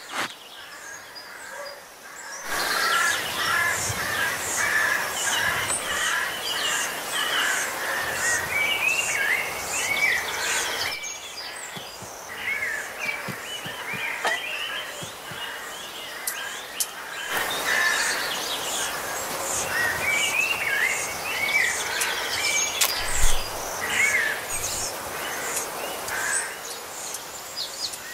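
Several songbirds chirping and trilling over one another over a steady woodland background. The birdsong sinks to a fainter background for several seconds in the middle, then swells up again. There is a short soft thump about two-thirds of the way through.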